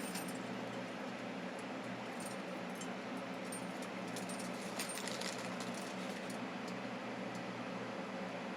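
Steady low background hum, like a running fan or room equipment, with a few faint light clicks and ticks scattered through it.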